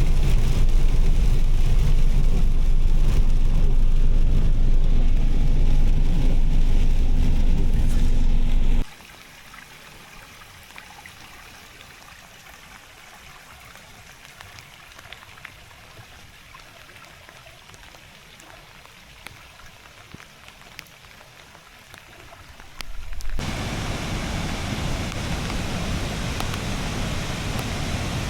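Outdoor rain and water ambience in three cut-together stretches. First a loud steady low rumble of wind and rain on the microphone, then a quiet stretch with scattered drip ticks, then a steady rushing hiss of water starting about 23 seconds in.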